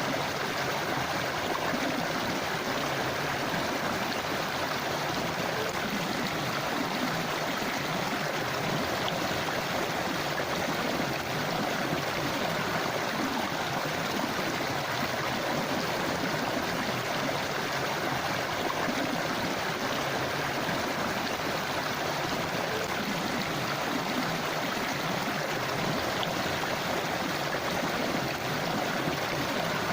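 Forest river flowing over rocks, a steady rushing and gurgling of water without change.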